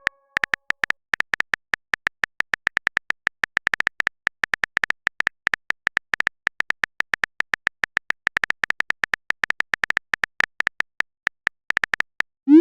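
Rapid phone-keyboard typing sound effect: short tapping clicks, about six to eight a second at an uneven pace. At the very end comes a short rising swoop, a message-sent sound.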